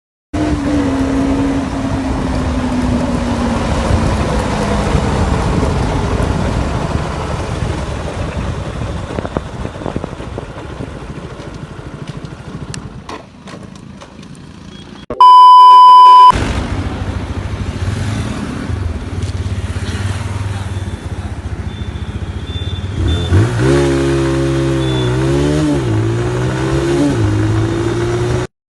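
Small-displacement motorcycle engine: its pitch falls steadily over the first several seconds as the bike slows, then it fades. About halfway through there is a loud, steady beep lasting about a second. Then the engine runs steadily and is revved up and down several times near the end.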